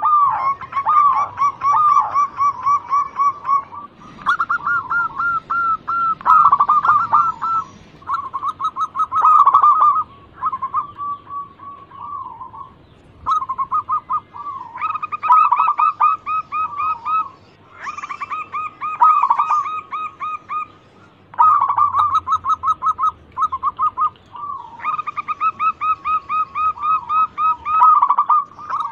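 Zebra dove (local perkutut) singing: phrases of quick, rippling coo notes a few seconds long, one after another with short pauses between.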